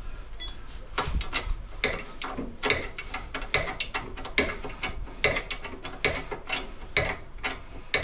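Ratchet wrench clicking in steady back-and-forth strokes, a little under one a second, as a nut on the front suspension (ball joint or tie rod end) is run down.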